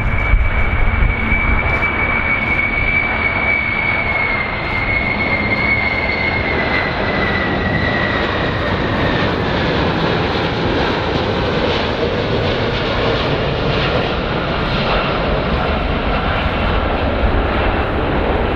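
A large airplane's engines running loud, with a deep rumble under a high whine. About 4 to 9 seconds in, the whine slides slowly down in pitch.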